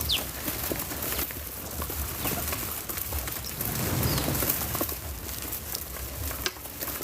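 Scattered light ticks, pattering and rustling over a steady outdoor hiss, with one short falling bird chirp right at the start.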